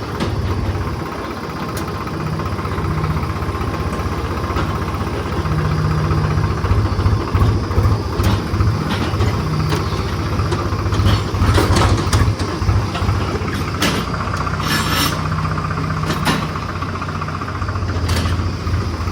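Diesel tractor engine running steadily at low revs, towing a loaded water tanker down a slope with a light touch of the brakes. Sharp clanks and rattles come now and then through the middle stretch.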